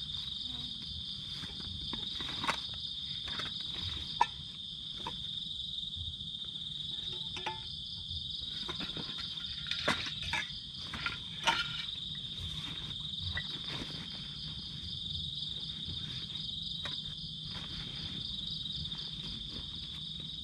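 A steady, high-pitched insect chorus trilling without a break. Scattered sharp clicks and knocks sound over it, the loudest about four seconds in and a cluster about ten to eleven seconds in.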